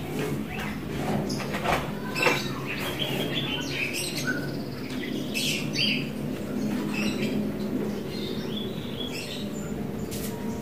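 Pet lovebird chirping and chattering in short bursts, over a steady low background hum.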